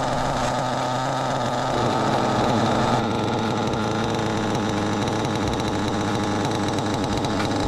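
LRP28 4.6cc nitro engine running at a steady speed, its buzzing note holding level.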